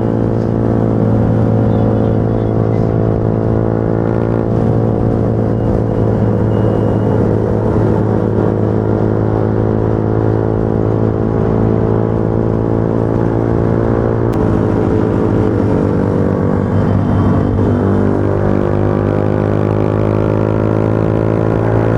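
Motorcycle engine running steadily at cruising speed under way on a highway. About two-thirds of the way through the pitch steps down at a gear change, then climbs slowly as it accelerates again.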